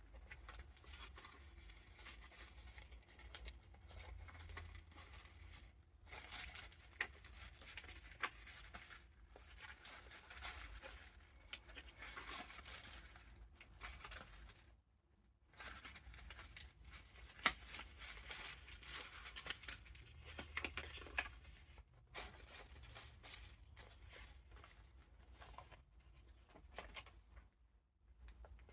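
Soft paper rustling and crinkling as the pages of a handmade junk journal of vintage paper ephemera are turned and handled, with small ticks and flicks of paper, and a brief pause every few seconds.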